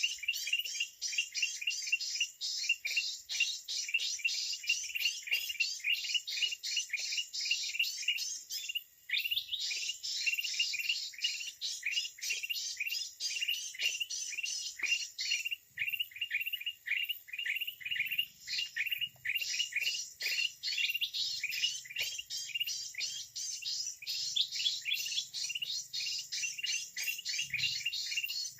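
Dense, rapid bird chirping: short high chirps repeated several times a second with hardly a break, pausing briefly twice.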